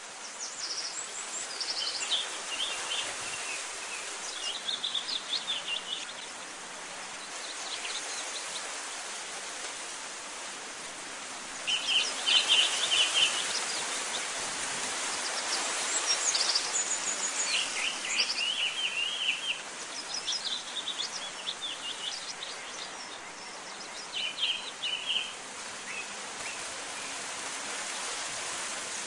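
Several small birds chirping and singing in short rapid phrases, one after another, over a steady background hiss; the loudest burst of chirps comes about twelve seconds in.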